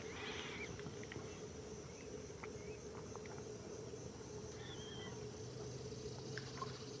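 Quiet outdoor wetland ambience: a faint steady background with a few brief, faint bird chirps, one short warbled trill about two-thirds of the way through.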